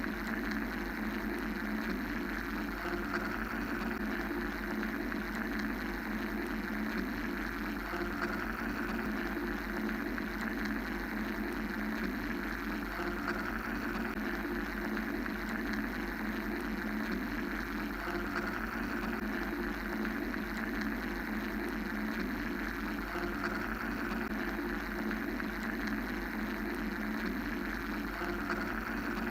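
Steady mechanical drone: a continuous machine-like hum and hiss with no breaks, its upper hiss swelling gently every five or six seconds.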